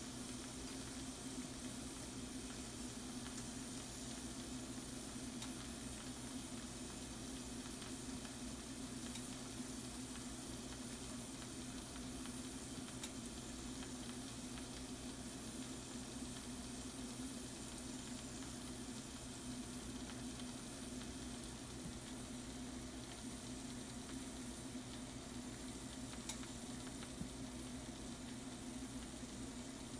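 Shrimp and mushrooms sizzling steadily in a frying pan, with a few faint pops over a low steady hum.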